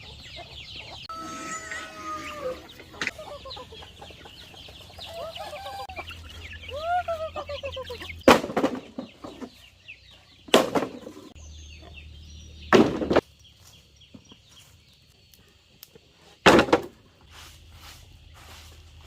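Chickens clucking and calling, with one long falling call about a second in and short arched calls a few seconds later. Four loud, noisy knocks or scrapes, louder than the birds, come two to four seconds apart in the second half.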